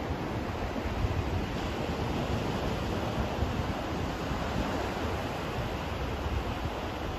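Steady white-noise sleep track: an even, unbroken rush with no pattern, heavier and deeper in the low end than a thin hiss.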